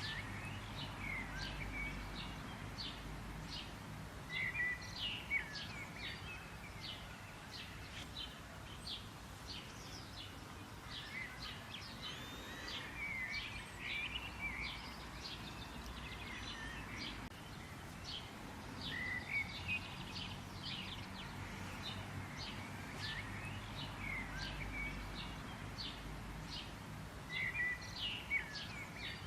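Several small birds chirping and calling outdoors, with many short, quick chip notes and a few brief warbling phrases, over a steady low rumble.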